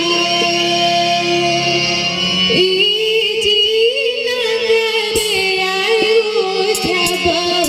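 A woman's voice singing a Bagheli folk song, holding long, bending melodic notes over a steady low held tone, with several short percussive strokes in the second half.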